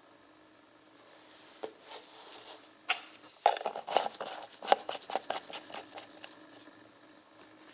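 Handling noise: a run of sharp clicks, taps and rustles that starts about a second and a half in, is busiest in the middle and dies away before the end, over a faint steady hum.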